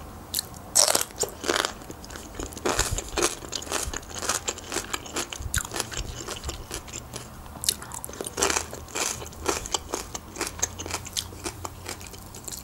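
A person chewing a mouthful of crunchy sauerkraut pickled with beet, with many short crisp crunches.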